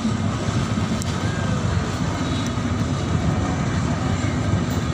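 Steady low rumbling noise at an even, fairly loud level, with no distinct events.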